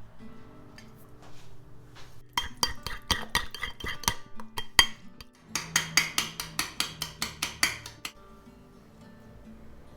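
A metal utensil clinking against a dish or glass: a few irregular knocks, then a run of fast, even strokes about four a second, like stirring or whisking, which stop about eight seconds in. Soft background music plays underneath.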